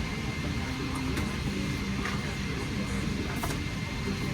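Airliner cabin ambience during boarding: a steady rush of cabin ventilation, faint background voices and a few light clicks.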